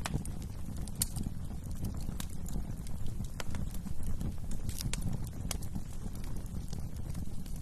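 Wood fire burning in a fireplace: a steady low rumble of flames with sharp, irregular crackles and pops from the burning wood.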